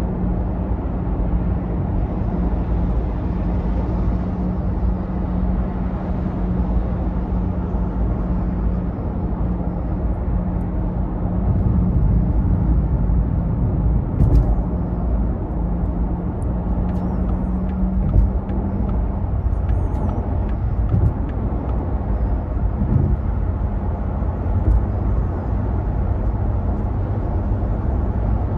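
Porsche Taycan electric car driving: a steady low road and tyre rumble, with a steady hum that gives way to a lower hum about two-thirds of the way in, and a few light clicks near the middle.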